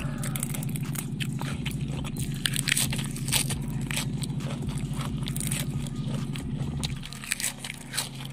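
Close-miked crunching and chewing of raw caisim (Chinese mustard greens), a dense run of crisp, sharp crunches. A low steady hum runs underneath and eases off about seven seconds in.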